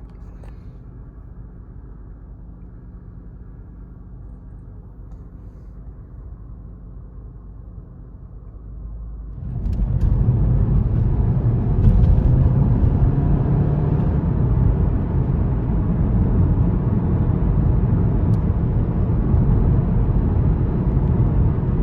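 MK7 Volkswagen Golf R's turbocharged EA888 four-cylinder engine, heard from inside the cabin, running steadily at light load, then about nine and a half seconds in going to full throttle for a third-gear pull and getting much louder. Under this load the engine is breaking up with a misfire on cylinder 3.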